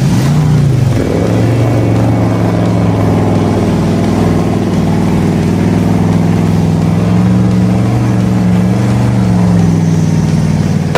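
Engine running with a loud, steady low drone whose pitch wavers gently, after a brief rev up and back down about half a second in.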